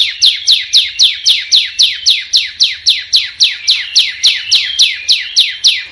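A small songbird's rapid call: a long, even series of sharp notes, each sliding down in pitch, about four a second, which cuts off abruptly near the end.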